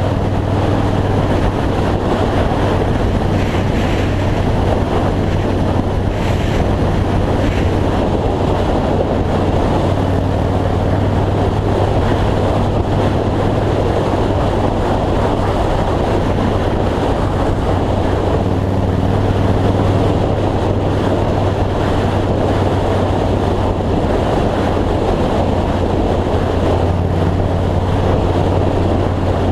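2003 Yamaha Road Star's V-twin engine running steadily at highway cruising speed, a constant low hum under heavy wind rush on the microphone.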